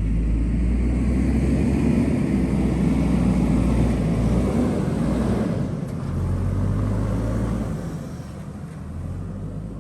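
JCB backhoe loader's diesel engine running steadily. Its pitch shifts about six seconds in, and it grows quieter near the end.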